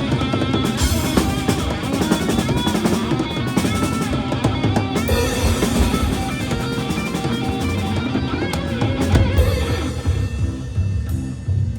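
Live rock band playing an instrumental break: a drum kit with bass drum and snare drives the beat under bending electric-guitar lead lines. About ten seconds in, the high end drops away and bass and drums carry on.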